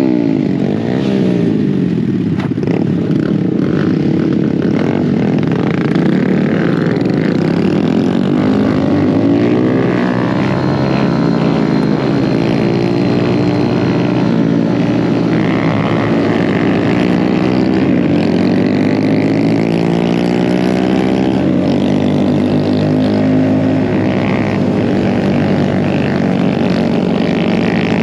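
Several mini bike engines running together on the move. Their pitches rise and fall and cross over one another as the bikes speed up and ease off.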